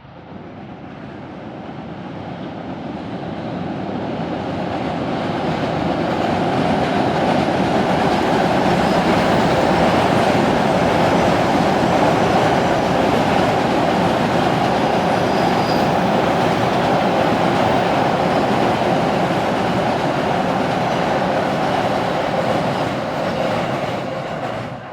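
Train crossing a steel railway bridge: a dense rumble that grows louder over the first several seconds, holds steady and loud, then cuts off near the end.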